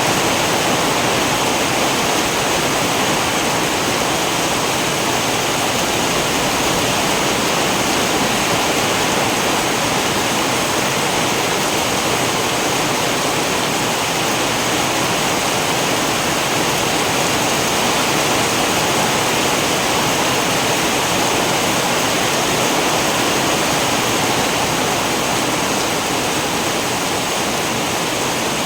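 Steady heavy rain, a dense even hiss of falling water with no thunder or single drops standing out.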